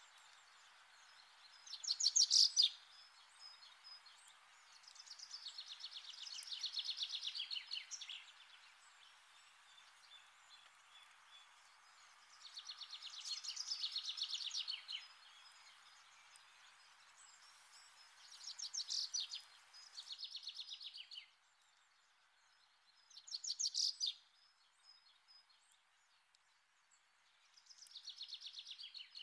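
A small bird singing short trilled phrases of rapid high notes, one every few seconds, over a faint steady background hiss that drops away about two-thirds of the way through.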